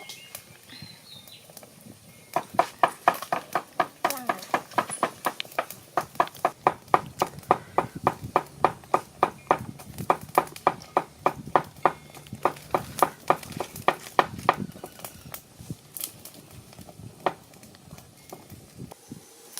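Knife chopping on a cutting board: a long run of steady, sharp knocks at about three a second. The run starts about two seconds in and stops near the three-quarter mark, leaving a few scattered clicks.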